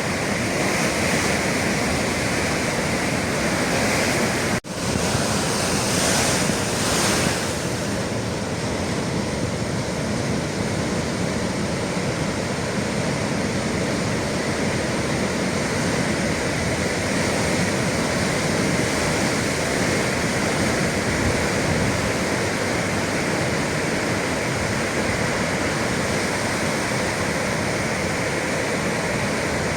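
Sea waves surging and breaking against the shore in a steady rushing wash, with a swell about six seconds in. The sound cuts out for an instant about four and a half seconds in.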